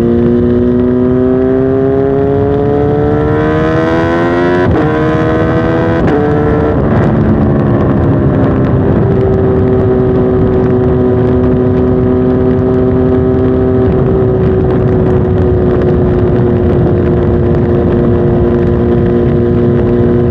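Kawasaki Z H2 SE motorcycle's supercharged inline-four accelerating hard, its note rising, then dropping in steps at upshifts about 4.5, 6, 7 and 9 seconds in, after which it holds a steady cruising note.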